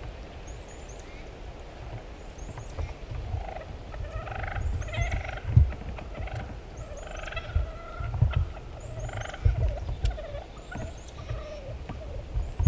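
Wild turkey gobbler gobbling several times in the middle stretch, with a small bird's high chirp repeating about once a second and low wind thumps on the microphone.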